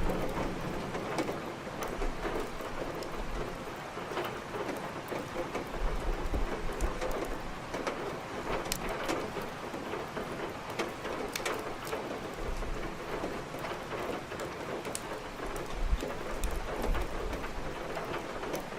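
Steady heavy rain with sharp crackles of burning firewood from a fireplace over it, and a low rumble now and then.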